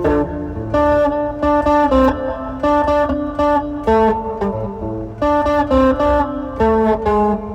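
Electric guitar played through effects pedals: a riff of sharply picked notes and chords, repeated in short phrases.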